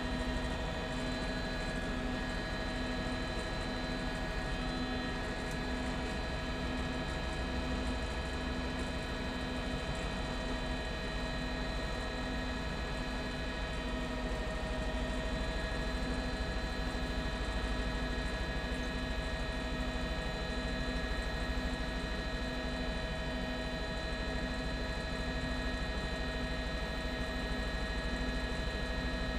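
Steady drone of a news helicopter in flight, heard from inside the cabin: an even hum with several steady tones, one of them pulsing evenly, and no change throughout.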